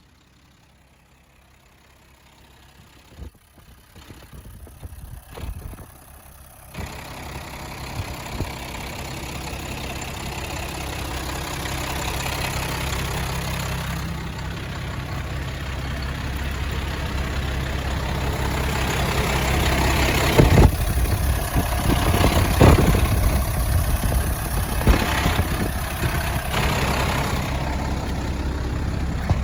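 A 1990 International 4700 dump truck's engine starting about seven seconds in, after a few clicks and knocks, then idling steadily and growing gradually louder. A few sharp knocks sound over the idle later on.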